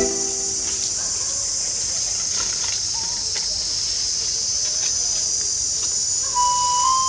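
Steady, shrill chorus of insects in the forest, a continuous high buzzing drone.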